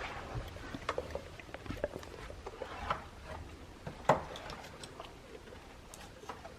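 Golden retriever puppy chewing a jerky treat: irregular small clicks and mouth noises, with one louder click about four seconds in.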